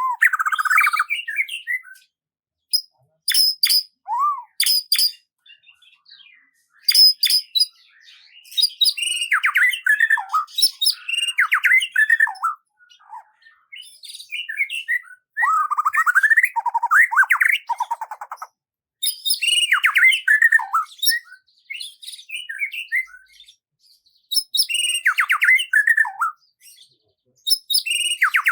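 Songbird singing a run of varied phrases, each a quick string of chirps and falling whistled notes, with short pauses between phrases.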